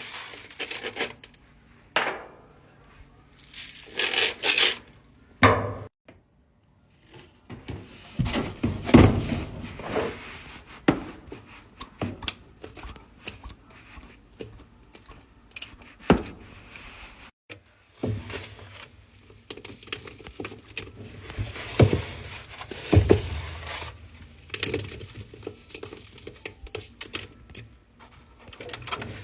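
Irregular clatter, knocks and crinkling from laundry products being handled, with a few short rushing pours.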